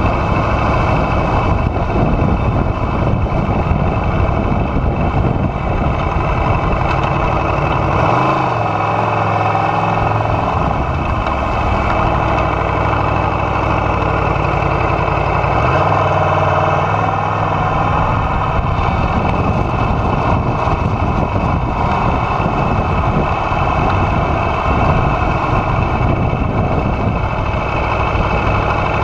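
Aprilia Tuono V4R's V4 engine running steadily, its deep low note dropping away briefly about eight seconds in and again around sixteen seconds.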